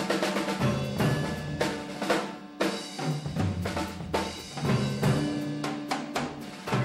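Drum-led music: a drum kit playing a steady rhythm of bass-drum and snare strikes over held low pitched notes.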